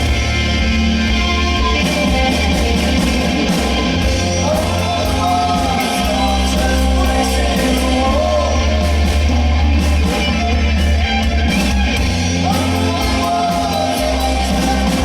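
Live rock band playing loud, with bass, drums and cymbals and a singer's voice over it in stretches.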